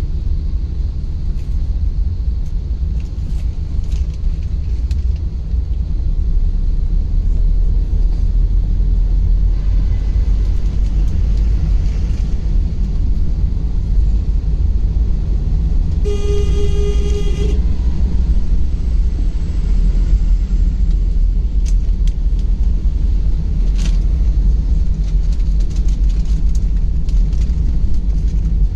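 Steady low rumble of road and engine noise from a car driving, with a vehicle horn sounding once for about a second and a half about halfway through.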